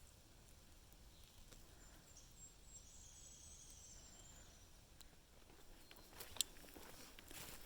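Near silence on an outdoor trail: a faint, thin high sound in the first half, then a few soft sharp clicks near the end.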